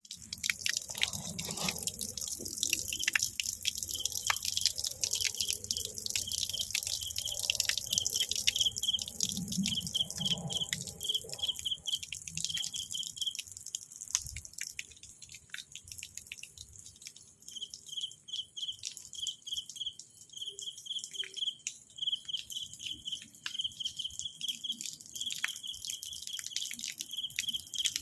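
Insects calling outdoors: a steady high hiss with many small ticks, and runs of short, evenly repeated high chirps that stop for a few seconds midway and then resume.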